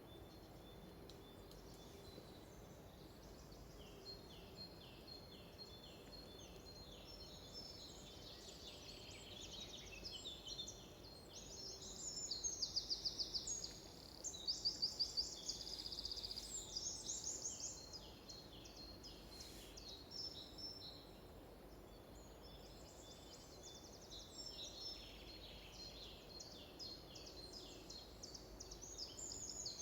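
Several small birds calling and singing over faint steady background noise, with bursts of rapid, evenly repeated trill notes about twelve and fifteen seconds in and again near the end.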